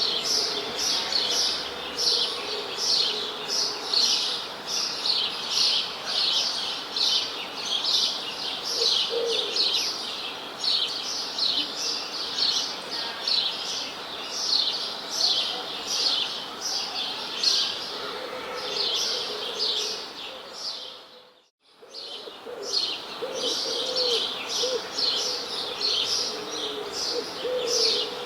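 Birds chirping in a dense, steady chorus of quick high chirps, several a second, with a lower call now and then. About two thirds of the way through it fades out almost completely for a moment and comes straight back in.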